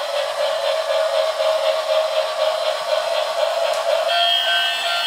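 Electric miniature train running, its small motor giving a steady whine with a regular clicking of about four a second. Near the end the clicking gives way to a steady higher two-note tone.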